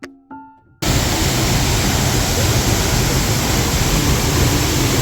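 A few ringing music notes, then about a second in a loud, steady rush of falling water from Glencar Waterfall cuts in.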